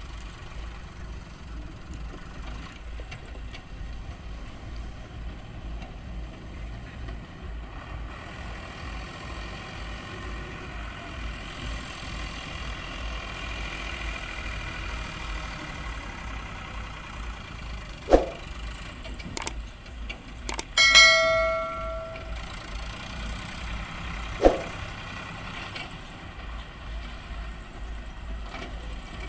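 Swaraj tractor diesel engine running with a steady low thudding that grows fuller for several seconds in the middle. A little past halfway come a few sharp knocks and a ringing metallic clang that dies away over about a second.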